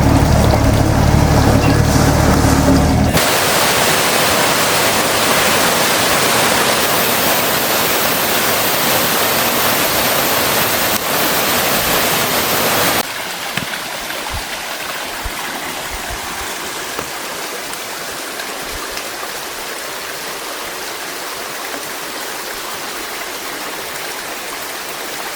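Rushing water of a mountain stream, a steady loud rush that drops suddenly about halfway through to a quieter, thinner hiss. A low hum underlies the first three seconds.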